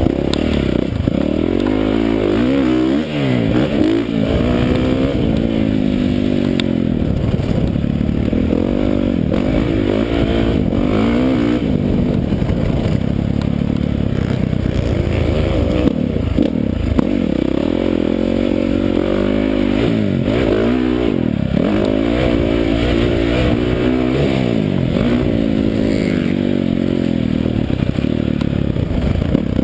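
Dirt bike engine being ridden hard, revving up and dropping back over and over as the throttle opens and closes and the gears change.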